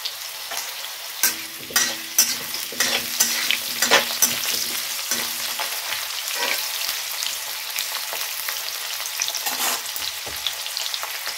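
Potato pieces frying in hot oil in a pan, a steady sizzle, as the potatoes are browned. A spatula stirs them, knocking and scraping against the pan several times, mostly in the first half.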